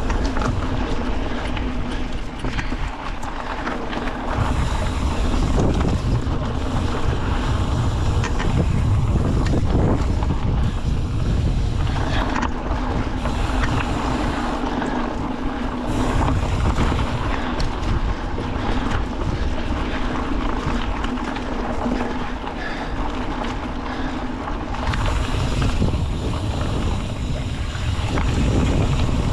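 Wind buffeting the microphone over a steady low rumble, the low end swelling and easing in gusts.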